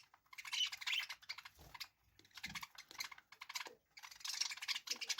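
Budgerigars chattering and warbling: rapid clicky, scratchy chirps in several bursts with short pauses between them.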